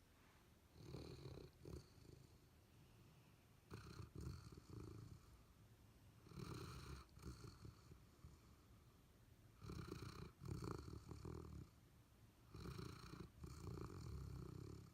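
A sleeping retriever dog snoring: about five low, rumbling snores, roughly every three seconds.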